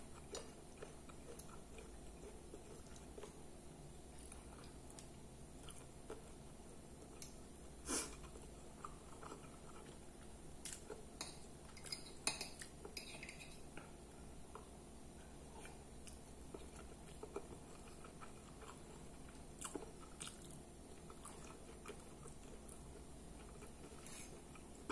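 Quiet chewing and mouth sounds of a person eating a soft meal of beef liver with onions, rice and pasta, with a few sharp clinks of a metal fork against a glass plate, the loudest about eight seconds in and several more around twelve seconds.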